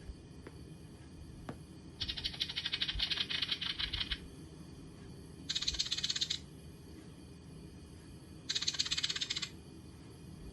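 Three bursts of fast rattling clicks, the first about two seconds long and the other two about a second each.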